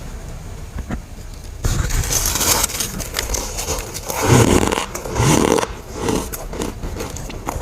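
Dry, powdery freezer frost being bitten and chewed, with squeaky crunching. There is a crunch about two seconds in and louder crunching around the middle.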